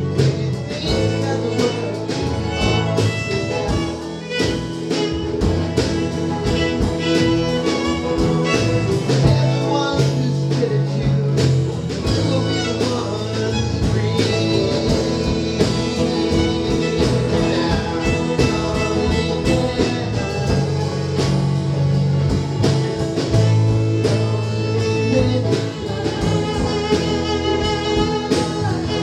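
A small band playing a song live: guitars and bass over a steady drum beat.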